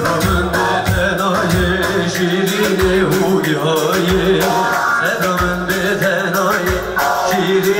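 Kurdish folk band playing amplified Middle Eastern-style music, with a voice singing over a steady drum beat.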